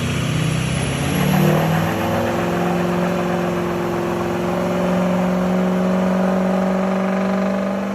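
Truck engine revving up about a second in, then held at high revs at a steady pitch.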